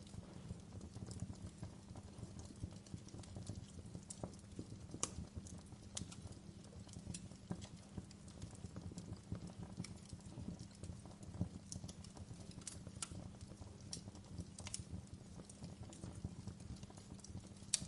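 Wood fire crackling in a fireplace: irregular sharp snaps and pops, a few louder ones standing out, over a steady low rumble of the burning fire.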